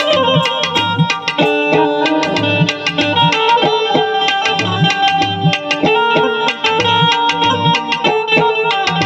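Instrumental passage of a Gujarati bhajan: tabla playing a steady rhythm, its bass drum bending in pitch about twice a second, under a melody instrument holding and changing notes.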